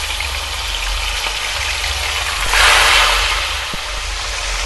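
Pieces of marinated swamp eel deep-frying in hot oil, a steady sizzle that swells louder for a moment about halfway through.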